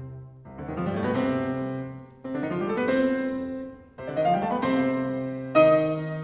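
Concert grand piano playing solo: three fast rising scale runs, each swelling in loudness, then loud struck chords near the end.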